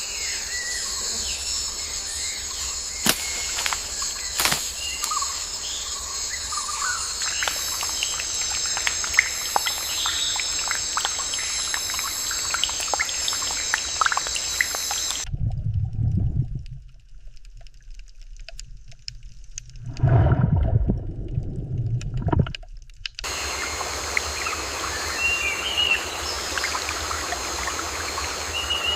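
Natural outdoor ambience: a steady high insect-like drone with scattered bird chirps and calls. In the middle, for about eight seconds, this gives way to a low, louder sound, likely water or splashing, before the drone and calls return.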